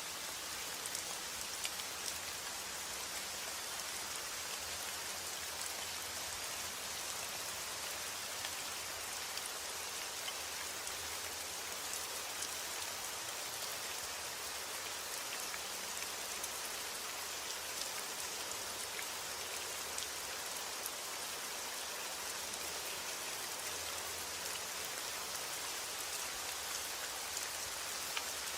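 Steady rain falling: an even hiss of rain with many small drop ticks, unchanging throughout.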